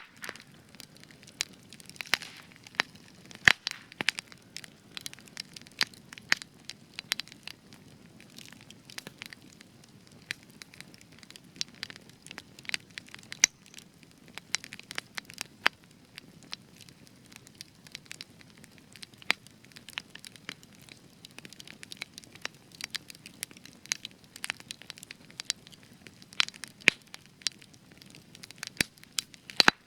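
Spruce wood burning in a campfire, crackling with frequent sharp, irregular pops and snaps over a low steady hiss of flames; the resin-rich spruce gives the extra crackle.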